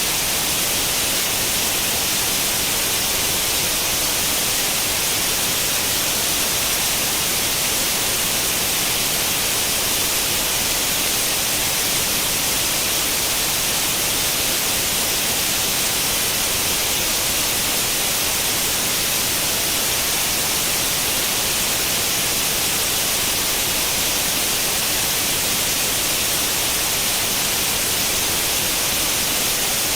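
Steady white-noise hiss like the static of an old tube television tuned to no channel, unchanging throughout and strongest in the upper treble.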